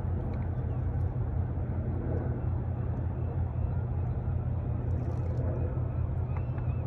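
Steady low engine rumble under a constant wash of noise, with a few faint high chirps near the end.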